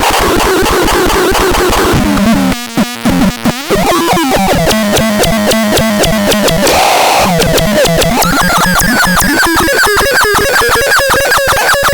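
Harsh, buzzy electronic tones from the ELKER, stepping between pitches over a dense rapid clicking. The sound cuts out briefly several times about two and a half seconds in, and in the last couple of seconds it pulses in a quick, regular rhythm.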